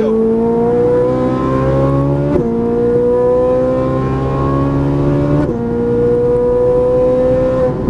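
Ferrari 458 Italia's 4.5-litre V8 accelerating hard at full throttle inside the cabin, its pitch climbing and then dropping sharply with two quick upshifts, about two and a half and five and a half seconds in. Near the end the pitch holds roughly level.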